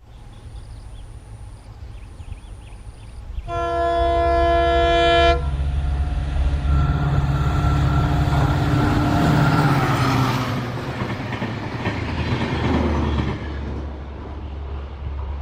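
Bikaner express train passing on Indian Railways. A few seconds in, the locomotive sounds one long horn blast of about two seconds. Then comes the rising rumble and clatter of the train going by, loudest about ten seconds in, before it settles to a steady low rumble.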